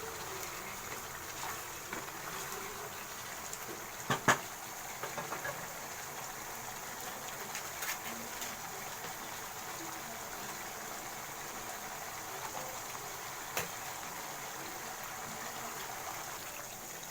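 Chicken gravy simmering in a pan, a steady soft bubbling with small crackles. Two sharp knocks close together about four seconds in, the loudest sound, and a lighter one later.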